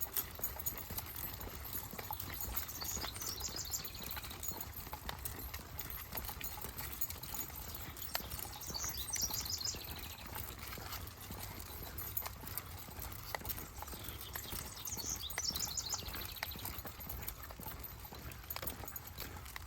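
Steady patter of footsteps on a trail, with a small bird singing a short falling trill three times, about six seconds apart, and a low rumble of wind on the microphone.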